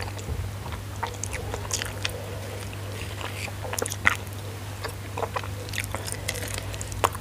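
Close-miked chewing and wet mouth sounds of someone eating rice and curry by hand: scattered soft clicks and crackles, with a sharper smack about four seconds in and another near the end, over a steady low hum.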